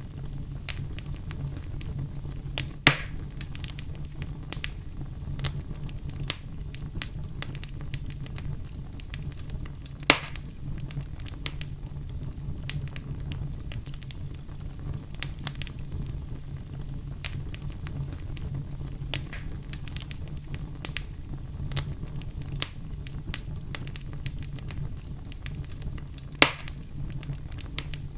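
Wood fire burning in a fireplace: a steady low rumble of flame with frequent small crackles and three louder, sharper pops, about three seconds in, ten seconds in and near the end.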